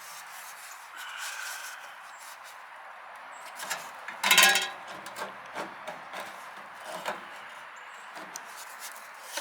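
Sheet-metal downspout pieces being handled and fitted together: scraping and light knocks, with one louder scraping clatter about four seconds in.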